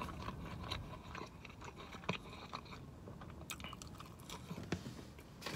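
A person chewing a mouthful of hot dog in a roll with the mouth closed: faint, irregular small clicks.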